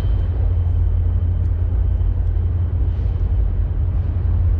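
Train passing, a loud steady low rumble with a faint high steady tone that fades out partway through.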